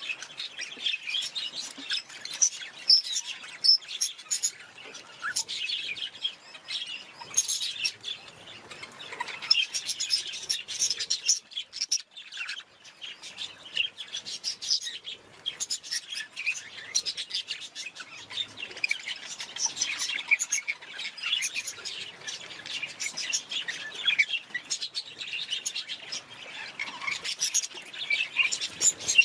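Budgerigars chirping and chattering, a dense unbroken stream of short high chirps.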